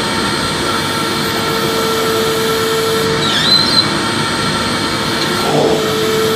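Vacuum cleaner running steadily: an even rush of motor and airflow noise with a faint steady hum, and a brief high squeak about halfway through.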